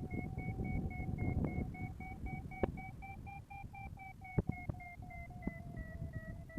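Paragliding variometer beeping steadily in a quick run of short tones, the pitch rising a little midway and easing down near the end; the beeping tone signals the glider is climbing in lift. Low wind rush and a few sharp clicks underneath.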